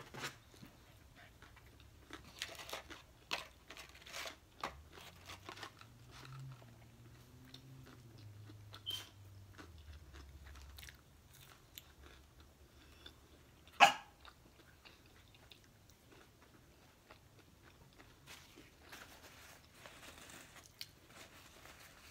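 Quiet chewing and mouth smacking while eating French fries, with scattered short crunches and clicks and one sharp click about fourteen seconds in.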